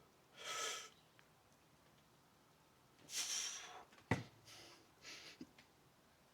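A person breathing out hard in short airy breaths, two stronger ones and a few weaker ones, as during exercise, with one sharp knock just after four seconds.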